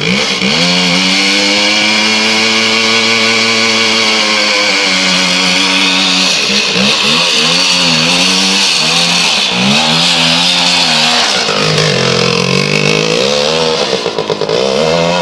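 Voskhod motorcycle's single-cylinder two-stroke engine running hard, its note held high for several seconds, then rising and falling repeatedly as the throttle is worked, easing off near the end.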